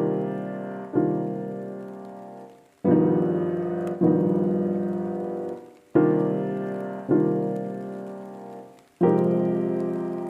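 Background piano music: slow chords struck and left to ring and fade, in phrases of two chords each, with short pauses between phrases.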